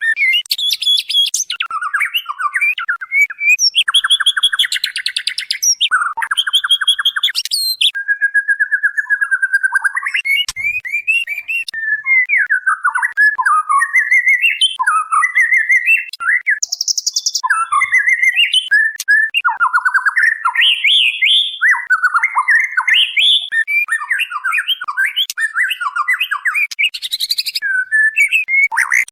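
Female white-rumped shama (murai batu) calling to a male in a continuous, rapidly varied run of whistled and chattering phrases, broken by harsh buzzy notes and sharp ticks.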